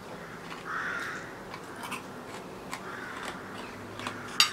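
Someone chewing pasta coated in fried, caramelised sugar, with short crisp crunches and clicks as the hard sugar breaks between the teeth.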